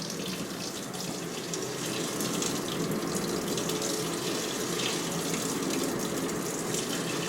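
Water pouring steadily into the tub of a 2006 GE Profile top-loading washer during its rinse fill, from the dispenser, growing slightly louder.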